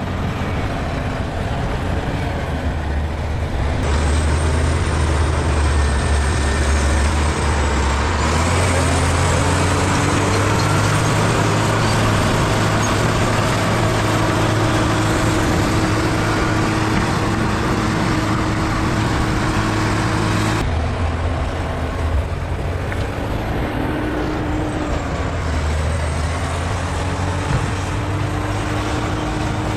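Bulldozer's diesel engine running under load, its pitch rising and falling as it works, with a high whine above it. The sound changes abruptly a few times.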